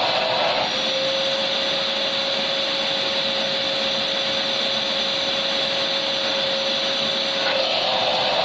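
Electric vacuum cleaner running steadily: an even rushing hiss with a steady whine that settles in about a second in and shifts briefly near the end.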